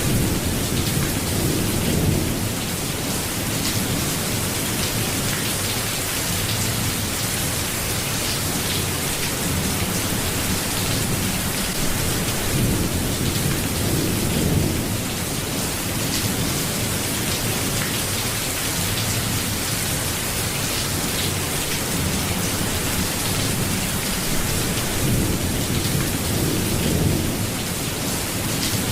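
Steady rain falling, with a low rumble of thunder swelling about every twelve seconds, three times.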